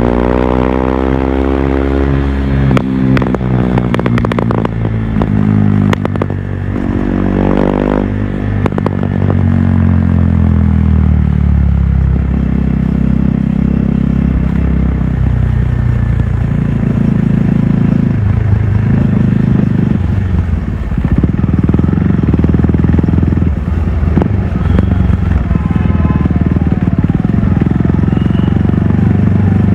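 KTM RC 390 Stage II single-cylinder engine with its exhaust, revs falling in the first few seconds with a run of sharp pops and crackles on the overrun. The revs fall again about ten seconds in, then the engine runs at low revs with the throttle opening and closing in short spells.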